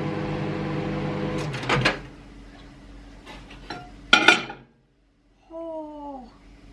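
Microwave oven running with a steady hum while melting butter, cutting off about a second and a half in with clicks as the door is opened; a loud clatter of a dish about four seconds in, then a short falling vocal sound.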